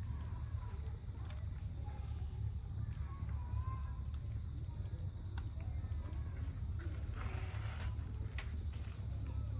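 Wood campfire crackling, with a few sharp pops over a steady low rumble. Children's voices are faint in the distance, and insects chirp in regular pulses.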